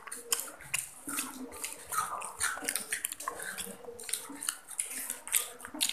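Children chewing and biting into fried banana fritters: irregular quick crackling clicks of eating.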